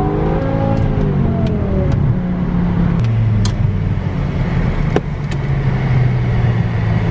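Car driving, its engine running with a steady low drone under road noise.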